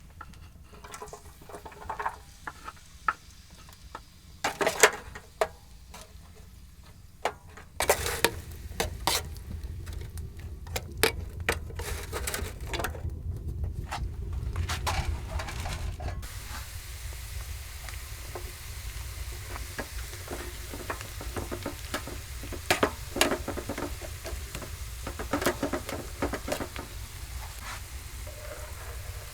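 Food sizzling in a pan, with stirring and scattered clicks and knocks from utensils and cookware.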